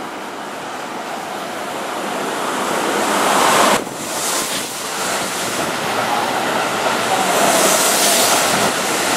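Keihan 3000 series electric train pulling alongside the platform: a rush of wheel and air noise that grows louder, drops suddenly for an instant a little under four seconds in, then holds as a steady loud rush while the cars run past close to the microphone.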